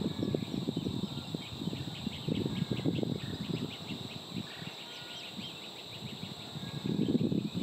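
A male red-winged blackbird's faint, rapid trill from about two to five seconds in, over a louder low crackling rumble that comes and goes and a steady high-pitched hum.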